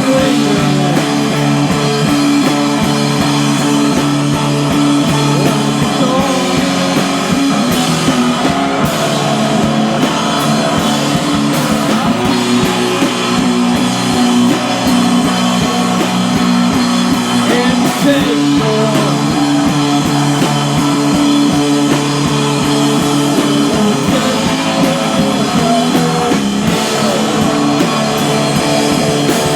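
Live rock band playing loud, with guitars and a drum kit, the chords sustained and unbroken throughout.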